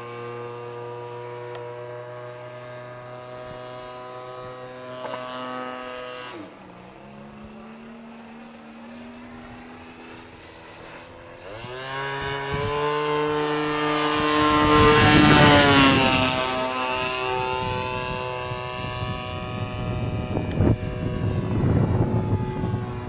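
Single-cylinder two-stroke Turnigy 30cc petrol engine of an RC Yak-54 aerobatic model plane in flight. The engine is throttled back about six seconds in and runs quieter, then opens up again near twelve seconds. It is loudest in a close pass around sixteen seconds, with the pitch falling as the plane goes by.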